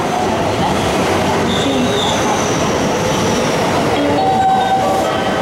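JR West electric commuter train pulling in alongside the platform, its wheels and running gear making a steady, loud rush of rail noise. A thin, high squeal comes and goes as it brakes.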